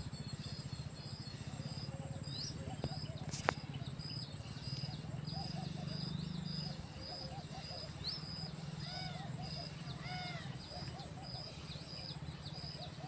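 Birds calling: a short high chirp repeated about twice a second, with a few other arched calls near the middle, over a steady low hum. A single sharp click about three and a half seconds in.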